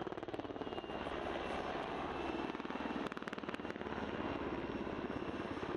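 PZL W-3A Sokół twin-turbine helicopter in flight: its main rotor beats in rapid, even pulses over the steady rush of the engines, with a faint high turbine whine.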